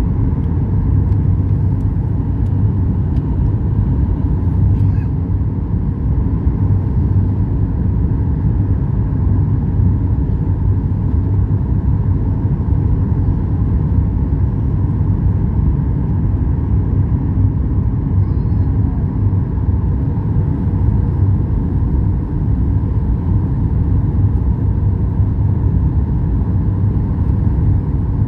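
Airliner cabin noise: a steady low rumble with a constant hum from the plane's engines and airframe.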